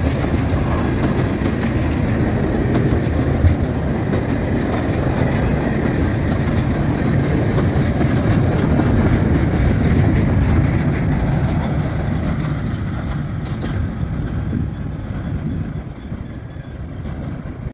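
Freight train of container flatcars rolling past at speed: a steady rumble of wheels on rail with some clickety-clack. The noise fades away over the last few seconds as the end of the train goes by.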